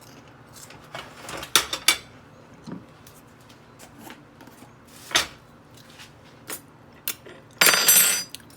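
Dishes and utensils clinking and knocking as a plate of food is put together, in short separate clicks. Near the end comes a longer rasping clatter lasting under a second.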